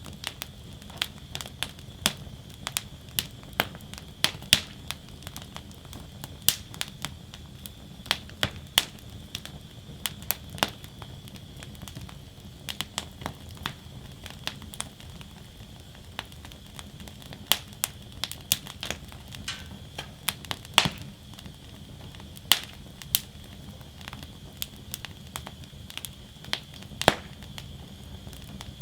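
Wood fire burning in a fire basket, crackling and popping irregularly over a steady low rush of flame. The sharpest pops come about 4 s, 21 s and 27 s in.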